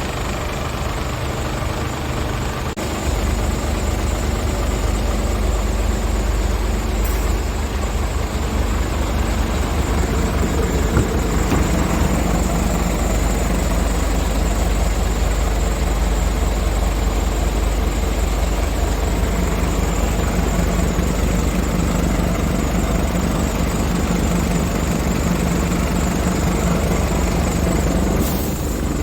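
Scania R450 truck's 13-litre six-cylinder diesel idling steadily, stepping up in level about three seconds in.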